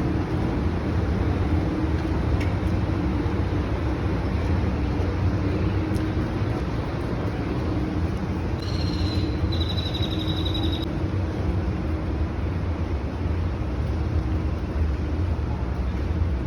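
Steady rumble and hum of a river tour boat's motor under way. About halfway through, a brief high-pitched tone sounds twice.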